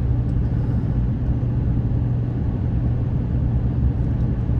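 Steady low drone of a vehicle driving along a road, engine and tyre noise heard from inside the cab.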